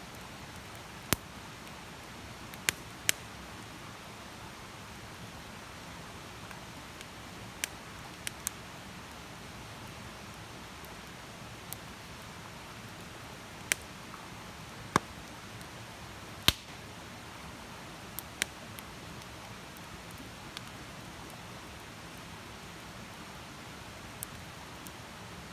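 Wood campfire crackling: a steady soft hiss with about a dozen sharp, irregular pops from the burning wood, several of them loud.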